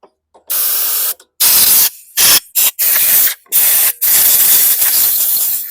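Compressed-air blowgun blasting in a series of short, sharp-edged hissing bursts, about seven, the last and longest lasting about a second and a half, blowing dirt out of a small engine's parts.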